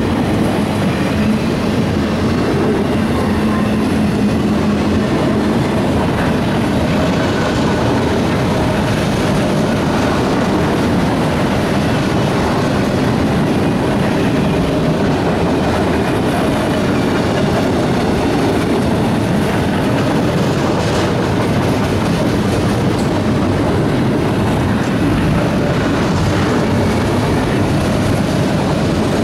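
CSX freight train of enclosed autorack cars rolling past close by: a steady, loud noise of steel wheels running on rail.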